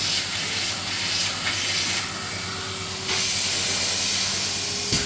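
Numatic Henry canister vacuum cleaner running: a steady hiss of suction over the motor's hum. The hiss drops for about a second, two seconds in, then comes back, and there is a short knock near the end.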